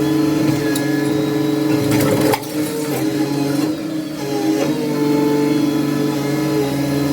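A heavy machine's engine running steadily, with cracking and crunching about two seconds in, typical of demolition debris being broken.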